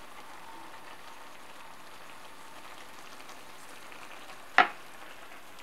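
Tteokbokki in red pepper sauce sizzling steadily in a frying pan, nearly done. One sharp knock about four and a half seconds in.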